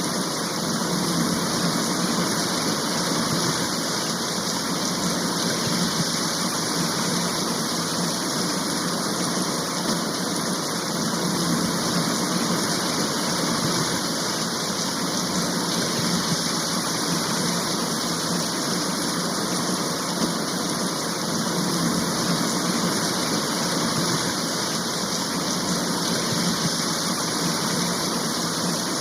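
Steady, even rain of a heavy shower, with no drops or thunder standing out.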